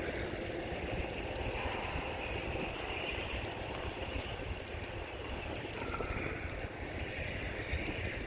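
Norfolk Southern freight train rolling slowly past with a steady rumble, with wind buffeting the microphone.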